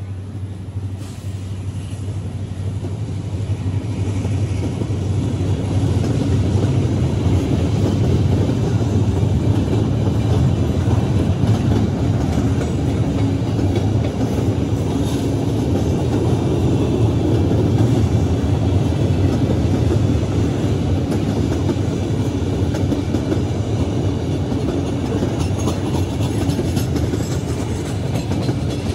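Freight cars rolling past on steel rails: a steady rumble and clatter of wheels on track, getting louder about four seconds in.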